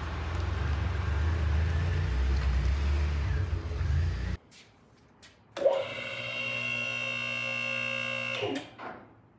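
A car engine running with a steady low rumble, cut off suddenly about four seconds in. After a second of near quiet, a steady many-toned whine from an electric motor starts sharply and runs for about three seconds before fading.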